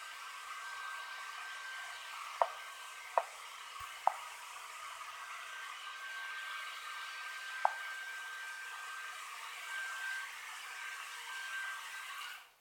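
Steady background hiss with a faint high whine, broken by four sharp clicks, two close together, then one more a few seconds later; the hiss cuts off suddenly at the end.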